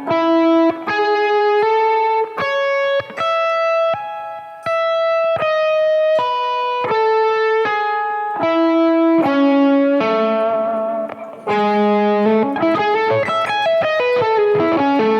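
Electric guitar, through an Axe-Fx II amp modeler, playing an A major 9 arpeggio one clean note at a time, slowly, with hammer-ons and pull-offs. Near the end it turns into a quicker run with sliding notes.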